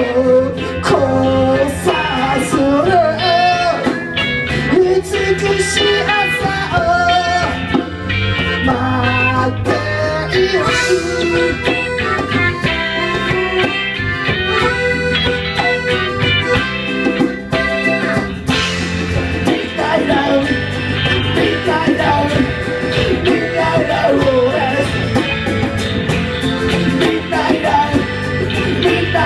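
Live band playing a song: a sung vocal line over guitar and drums.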